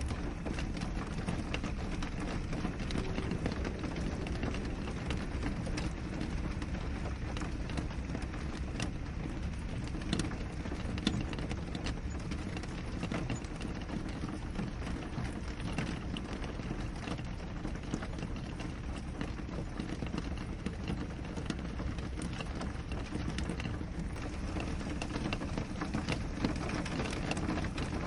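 Steady rain falling on a window, a dense low hiss scattered with many small drop ticks.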